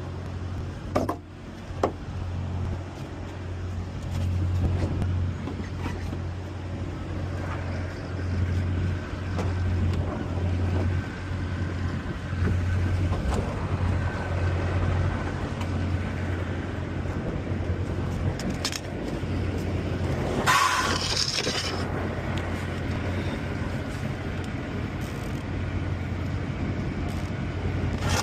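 A vehicle engine running steadily with a low hum. There are two sharp clicks about a second in, and a brief hiss or scrape about two-thirds of the way through.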